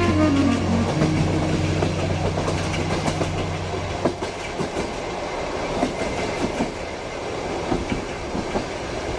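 Train carriage rumbling along with the clatter of wheels over the rails. Scattered clicks run throughout, and the last held notes of a song fade out in the first few seconds.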